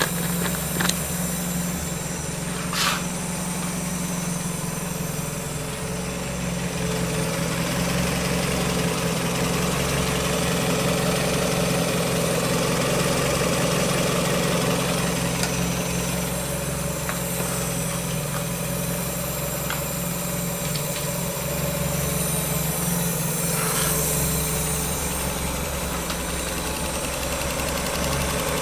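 Mazda Miata 1.8-litre four-cylinder engine (2000 NB) idling steadily, heard up close in the open engine bay, with one short click about three seconds in.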